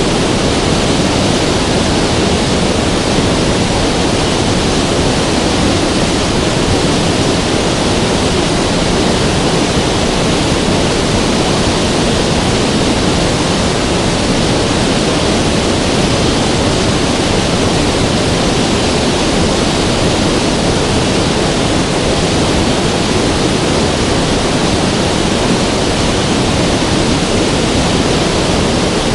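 River water rushing, a loud, steady, even noise with no breaks.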